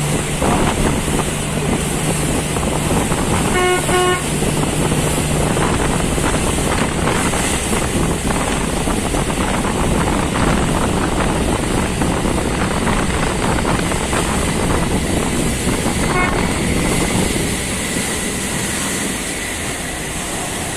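An engine running steadily under heavy rushing noise, with a horn tooting twice briefly about four seconds in.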